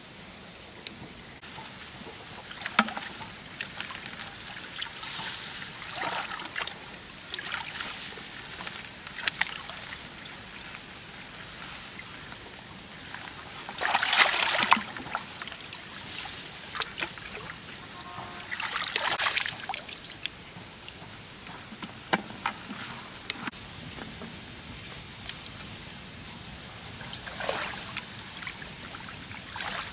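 Water splashing and sloshing in irregular bursts, about ten of them, the loudest around the middle, over a steady thin high-pitched tone that stops a little past two-thirds of the way through.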